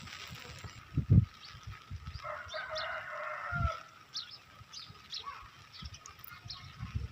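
A rooster crows once, a call of just over a second, while small birds chirp. A few low thumps are heard, the loudest about a second in.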